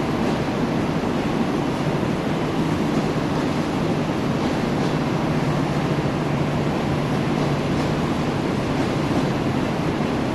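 Passenger train rolling steadily past, a continuous rumble and hiss of wheels on the rails.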